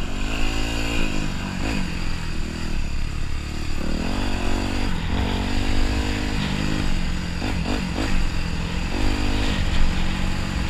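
Dirt bike engine under way, its revs climbing and dropping several times as the rider accelerates off-road.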